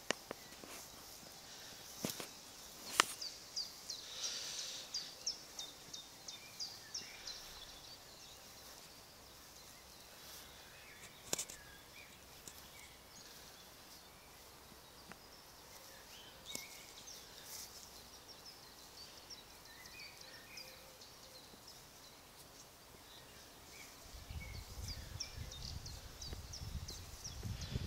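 Outdoor garden ambience with birdsong: runs of short high notes, several a second, in the first few seconds and again near the end. There are a few sharp clicks, and a low rumble comes in during the last few seconds.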